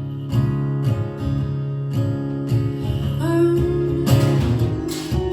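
Live folk-rock music: acoustic guitar strummed in a steady rhythm in a short instrumental gap between sung lines, with a held note coming in after about three seconds.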